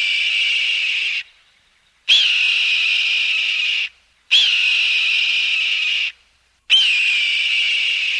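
Hawk screaming: four long, high screams about two seconds apart, each lasting nearly two seconds, with a short upward flick at the start and then held steady.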